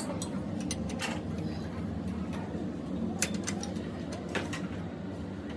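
Scattered metal clicks and taps from hand tools at work on a shock absorber, over a steady low rumble of workshop background; the sharpest click comes about three seconds in.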